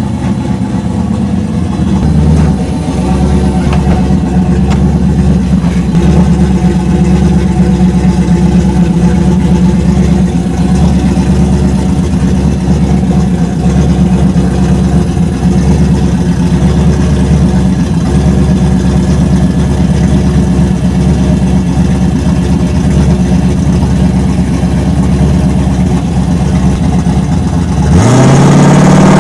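Drag-racing street truck's engine running steadily at a loud idle, then revving up sharply with a rising pitch near the end.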